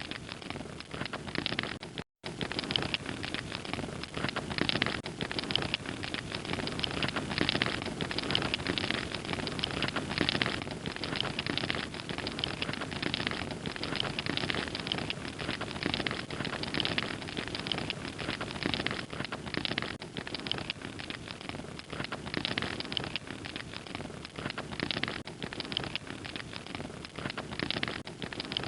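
Wood fire crackling steadily, a dense run of small pops and snaps over a soft hiss, with a split-second dropout about two seconds in.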